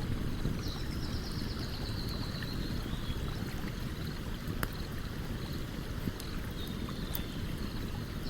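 Steady rushing of a stream, with a few sharp crackles from a campfire. A small bird's high, fast trill comes in about a second in for a couple of seconds and again at the very end.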